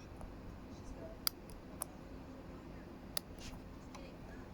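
A few faint, sharp clicks, three in about four seconds, of small plastic Lego toy pieces being handled, over quiet room tone.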